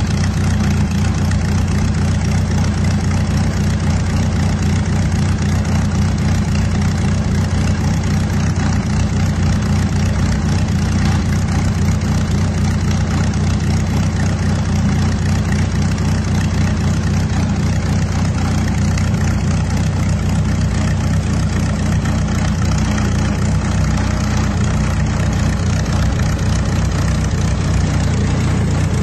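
D-Motor aircraft engine on a Kitfox 2 running steadily on the ground at a constant speed, a low, even drone with no change in revs.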